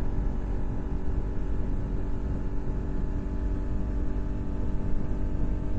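Motorcycle engine running at a steady speed while riding, an even hum with low wind rumble on the rider's microphone.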